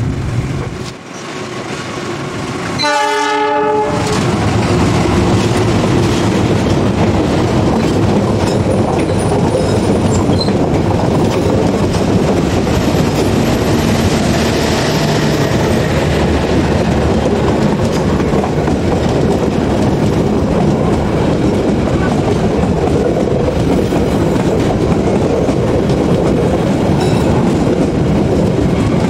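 A KAI diesel locomotive's horn sounds once, briefly, about three seconds in; then a passenger train passes close by, its coaches' wheels running loud and steady on the rails.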